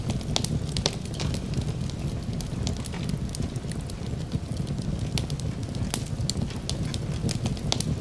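Wood fire crackling, with frequent sharp irregular pops over a steady low rumble, layered with rain.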